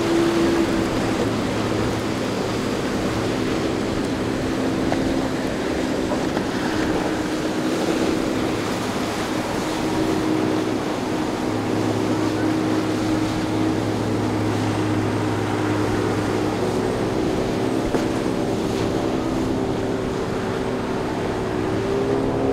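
Motorboat engines running steadily over a wash of water and wind noise, with the low engine hum growing stronger about halfway through.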